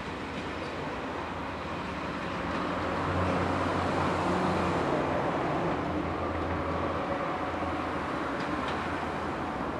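Passenger train coaches rolling past on the rails behind an electric locomotive, a steady rumble of wheels on track. It grows louder about three seconds in, then slowly eases as the train draws away.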